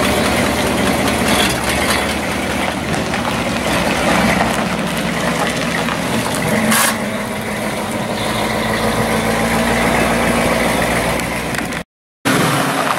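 Late-1950s Ford convertible's engine idling and pulling away slowly at low revs, running steadily, with one brief sharp click about seven seconds in. Just before the end, after a short break, another car's engine takes over.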